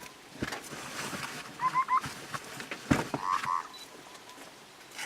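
A bird calling in a repeating phrase: a quick pair of buzzy notes, then a run of three short rising notes, each coming about every two seconds. A couple of sharp knocks fall between the calls.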